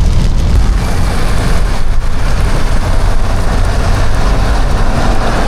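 Heavy rain and rushing air coming through a car window cracked open while driving, over a steady low rumble of road noise and wind buffeting the microphone. The rushing hiss thickens about half a second in.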